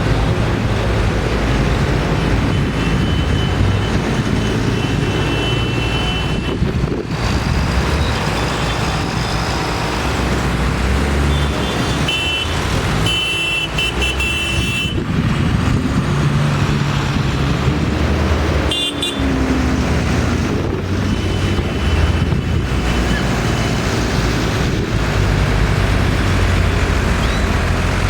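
Tractor engines running steadily as a parade passes, with horn toots several times over the engine noise, the longest near halfway.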